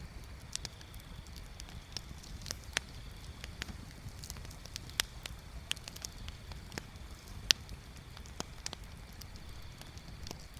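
Bonfire crackling: irregular sharp pops and snaps of burning wood, the loudest about two-thirds of the way in, over a steady low rumble and a faint steady high hiss.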